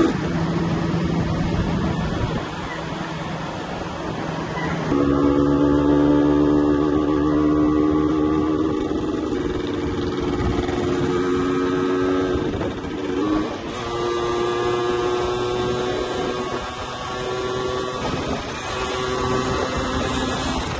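Yamaha 125ZR's single-cylinder two-stroke engine running at high revs under way, with wind noise over the microphone. The engine gets louder and its note firmer about five seconds in, and its pitch dips and recovers briefly around two-thirds of the way through.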